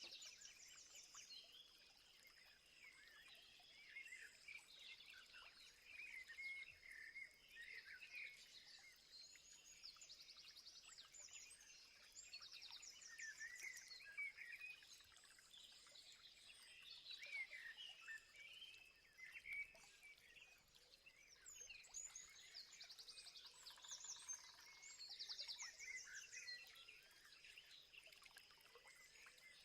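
Faint birdsong from several birds: scattered chirps and whistled notes, with rapid trills a few times, over a steady high-pitched tone.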